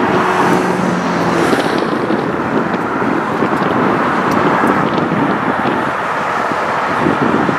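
Freight train of tank cars rolling slowly past, a loud steady rumble of wheels on rail with a few faint clicks.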